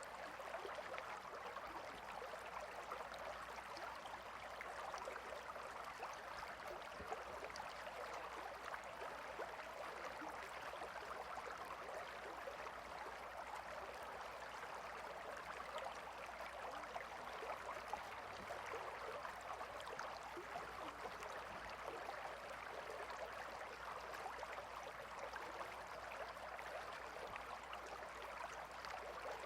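Gentle river flowing: a steady, even rush of water with no breaks or changes.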